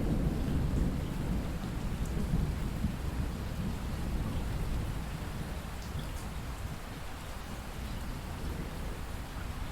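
Steady rain falling, with a low rumble of thunder that dies away over the first few seconds and a few scattered drop ticks.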